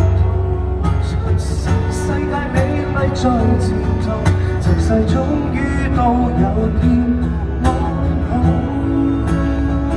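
Live pop band playing an instrumental passage of the song, with no lead vocal.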